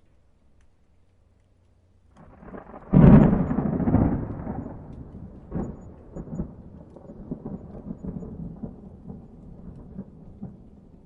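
A thunderclap in a thunderstorm. A rumble builds about two seconds in and breaks into a loud crack about a second later, then rolls on as a long, fading rumble with scattered crackles.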